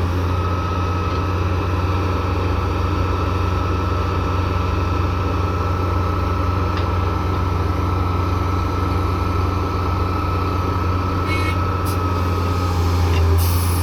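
Heavy diesel engine running steadily with a deep, even drone, and a thin steady high whine over it that stops about a second before the end.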